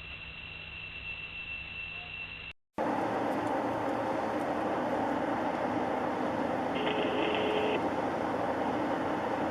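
Steady road and engine noise of a moving car, from two dashcam clips joined by a sudden cut about two and a half seconds in. The first clip carries a steady high whine; the second is louder and has a brief beep about seven seconds in.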